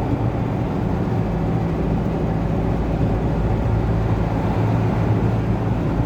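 Steady drone of a car driving at speed, heard from inside the cabin: engine hum with tyre and road noise, over a constant low rumble.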